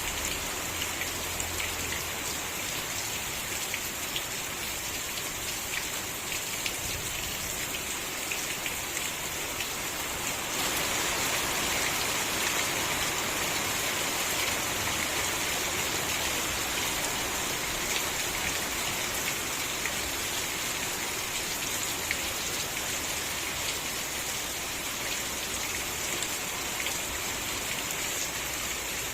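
Steady rain falling, with many individual drops ticking through the hiss. It gets a little heavier and louder about ten seconds in.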